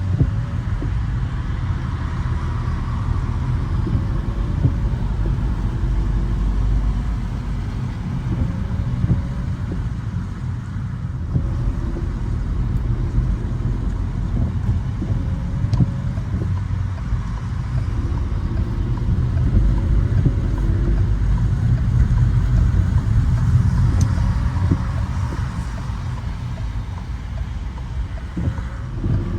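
Car driving along rain-wet city streets: a steady low road and engine rumble with a faint hiss above it.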